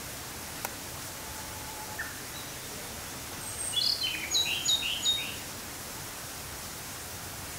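Ryukyu robin singing one short phrase of about two seconds, made of a quick string of high, sharp notes, several of them dropping in pitch. It sounds over a steady background hiss.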